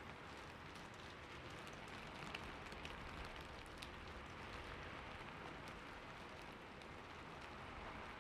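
Steady, quiet rain falling, an even hiss with scattered individual drops ticking.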